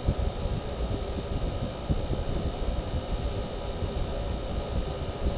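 Window air conditioner running with its fan on medium speed: a steady blowing hum. At this speed the fan motor runs fine and does not bog down.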